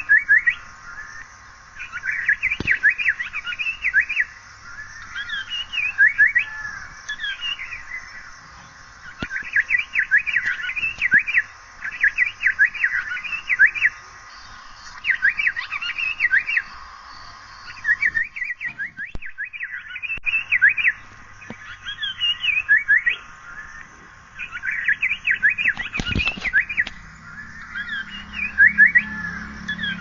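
Asian paradise flycatcher calling: bursts of rapid, sharp notes, each about a second long, repeated every couple of seconds, with a few slurred notes falling in pitch between them.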